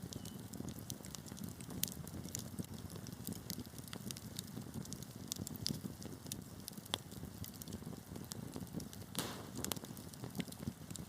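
Wood fire burning in a fireplace: a steady low rush of flame with irregular sharp crackles and pops from the burning logs, a brief burst of pops about nine seconds in.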